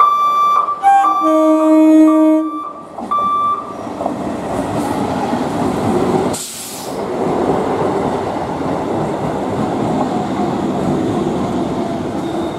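Short electronic beeps repeat about twice a second, and an EMU local train's horn sounds one held blast. Then the electric multiple-unit train's coaches run past close by, with a steady rush of wheels on the rails.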